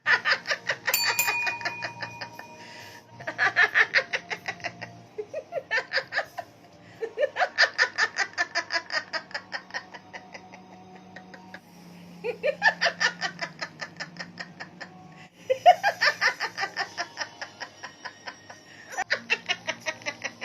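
Hearty laughter in about seven long bouts of rapid 'ha-ha-ha' pulses, with short breaks between them. A ringing tone sounds about a second in and fades after a couple of seconds.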